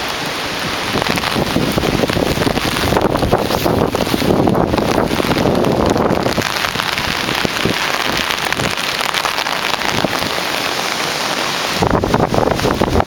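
Hurricane rain pouring steadily and hard, with gusts of wind buffeting the microphone, strongest about three seconds in and again near the end.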